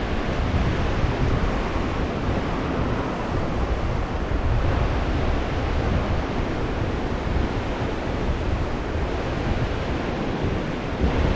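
Surf washing onto the beach under strong wind, with the wind buffeting the microphone as a steady low rumble.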